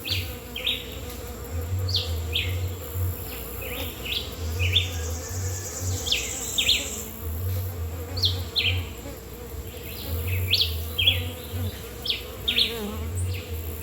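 Small metallic bees, which the uploader identifies as Jamaican orchid bees, buzzing in flight close to the microphone with a steady hum, while short high chirps repeat throughout.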